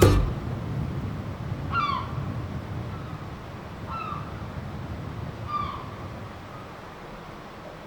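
A bird calling four times, short falling calls spaced about a second and a half to two seconds apart, over a low background rumble that slowly fades.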